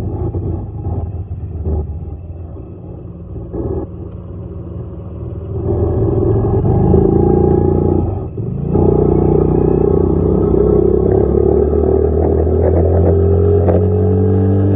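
Dirt bike engine running at light throttle, then opening up about a third of the way in. It dips briefly a little past halfway, then pulls steadily with its pitch slowly rising.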